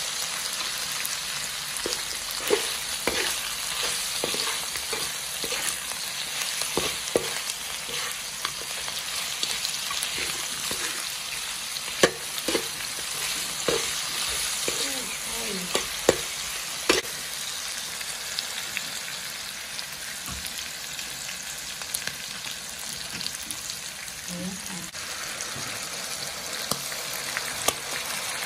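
Meat and sliced ginger sizzling in oil in a wok, stirred with a metal spatula that scrapes and knocks against the pan. The spatula strokes come often through the first half and thin out after about 17 seconds, leaving mostly the steady sizzle.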